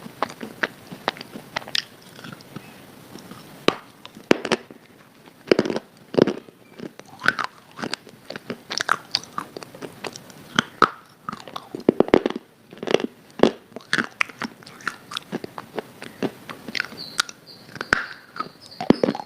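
A person biting and chewing something hard and crunchy, with irregular sharp crunches a few times a second.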